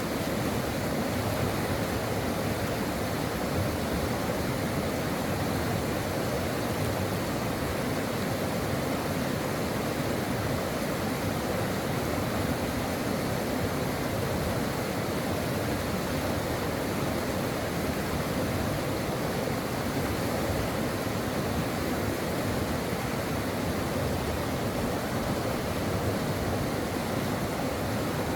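Stream water flowing over rocks, a steady even rushing without change.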